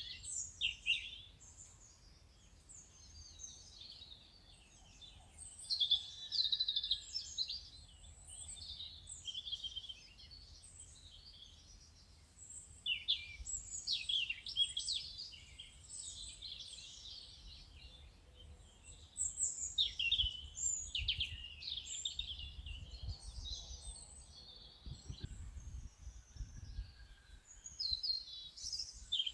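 Songbirds chirping and singing, many short overlapping calls and trills, over a low rumble that swells about three-quarters of the way through.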